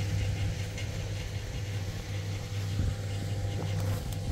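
An engine running steadily at idle: a low, even hum with no change in speed.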